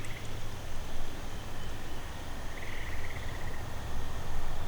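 Wind rumbling and buffeting on the camera microphone in open swamp. A faint pulsing insect trill comes through about two and a half seconds in, lasting about a second.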